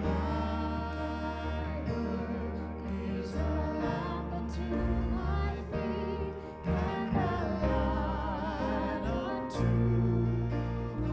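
Worship song: a voice singing held, wavering notes with strong vibrato over instrumental accompaniment.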